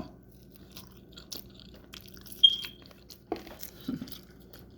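Close-up eating sounds: chewing with soft mouth clicks and a few sharper bites or crunches, the loudest about halfway through.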